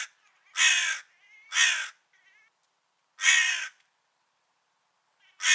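Crow cawing: a run of loud caws about half a second each, two close together early, then a longer gap before the next, with a couple of fainter calls in between.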